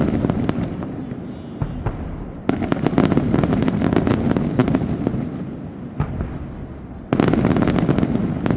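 Daytime fireworks going off in rapid crackling volleys of bangs, in waves. A wave is dying away at the start, a new one breaks out about two and a half seconds in and fades, and another starts about seven seconds in.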